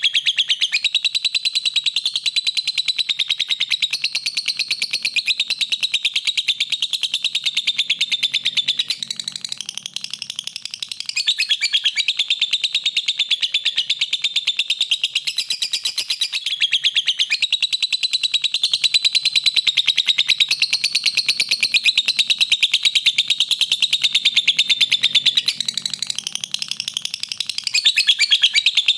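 Lovebird singing a long, unbroken, rapid high-pitched chattering trill, briefly softer about nine seconds in.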